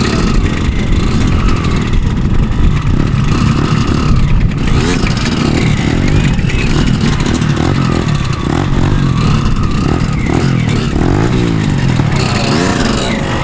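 Two Kawasaki motorcycles racing, their engines revving hard, the pitch repeatedly climbing and dropping.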